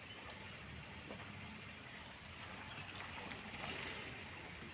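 Steady background noise with a low rumble and no distinct events.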